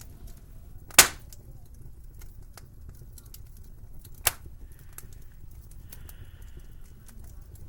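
Two sharp cracks about three seconds apart, the first much louder, over a low steady rumble of winter wind.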